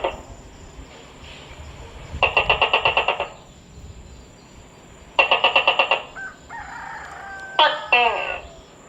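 Tokay gecko calling: two rapid rattling pulse trains of about a second each, then a brief steadier tone and, near the end, harsh falling calls.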